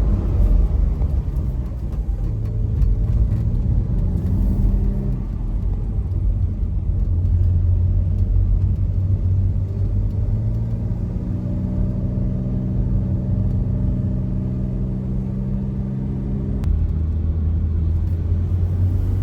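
Porsche 992.2 Carrera Cabriolet's turbocharged flat-six under way, its pitch rising and falling with the throttle, then holding steady for several seconds. Near the end the pitch steps down suddenly.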